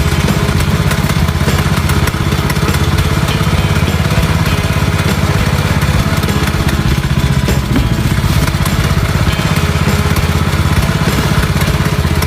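Small boat engine running steadily with a fast, even pulse, then cutting out abruptly at the very end as the engine gives out.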